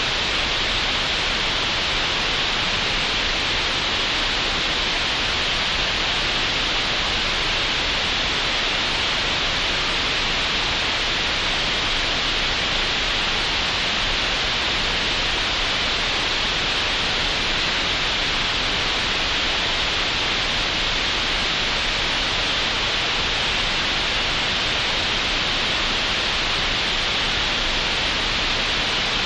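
Synthetic green noise: a steady, unchanging hiss, brightest in the upper middle range with the top end cut off.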